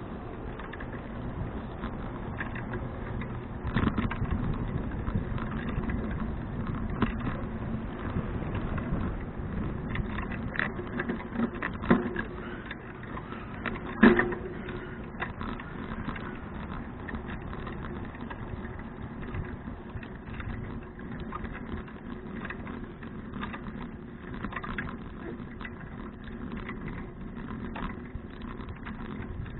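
Bicycle riding noise picked up on an action camera: a steady low rumble of tyres and wind, with rattles and knocks over bumps. The loudest knock comes about 14 seconds in.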